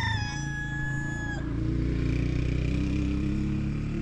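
A rooster crowing, its long held final note ending about a second and a half in, over a steady low engine-like drone that cuts off suddenly at the end.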